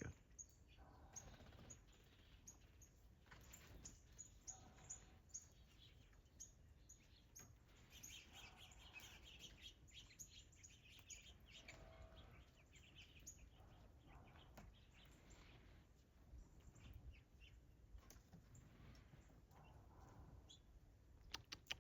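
Faint chirps and calls of small wild birds, short and scattered, with a quick run of sharp clicks right at the end.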